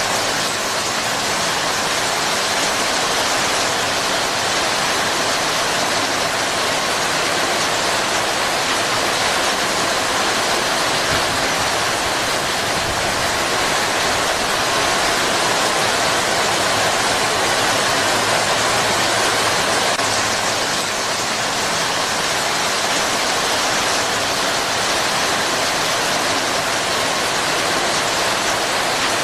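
Steady heavy rain pouring down on palm fronds and foliage, an even unbroken rush of drops.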